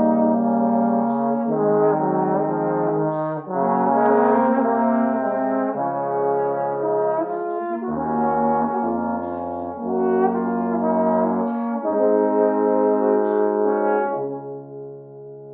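Four-part trombone harmony: several trombone parts hold slow chords that shift every second or so, with a deep bass line dropping in around the middle. The chord tapers off near the end.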